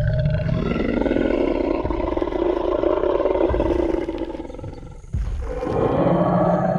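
Tyrannosaurus rex roar sound effect: a long, rough roar that fades away about four and a half seconds in, then a heavy low thump about five seconds in and a second roar beginning.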